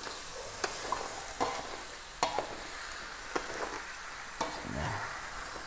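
Frog crab pieces sizzling steadily as they fry in a metal wok, stirred with a metal spatula that clinks and scrapes against the pan several times, about once a second.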